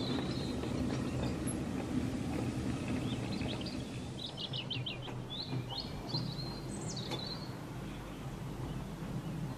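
Small birds chirping and trilling in short calls, mostly from about three seconds in to about seven seconds, over a steady low rumble.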